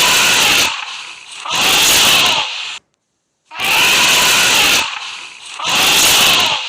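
Elephant trumpeting: four loud, harsh blasts of about a second each, coming in two pairs with a short silence between the pairs.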